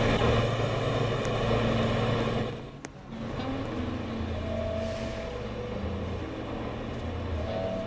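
R143 subway train running with loud rumbling noise and steady low tones. About three seconds in there is a sharp click and the noise drops away, leaving a quieter steady hum from the train's equipment.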